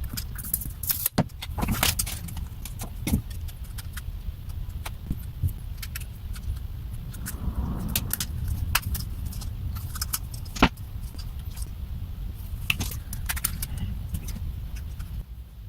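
Small plastic and metal parts of a car instrument cluster being handled and worked apart: scattered light clicks, taps and rattles over a steady low hum.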